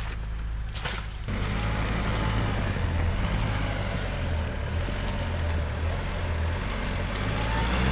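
A pickup truck's engine running steadily. About a second in it picks up and stays louder, with a hiss over it.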